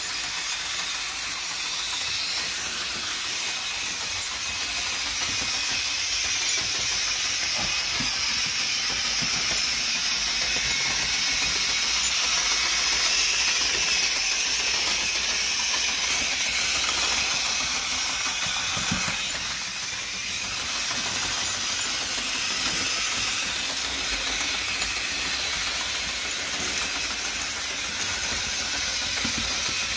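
Toy Christmas train's small electric motor and gears whirring steadily as the locomotive runs on its track. The whirr swells through the middle and dips for a moment a little past halfway, with a couple of faint knocks.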